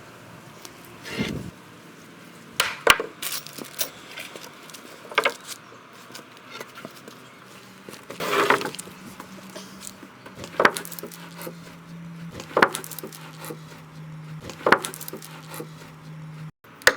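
Macrocarpa timber slats being handled and set in place, with about eight separate wooden knocks and clacks a second or two apart.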